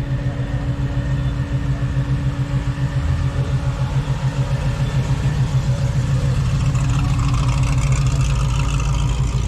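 A car engine idling close by: a loud, steady low rumble with a fast even pulse.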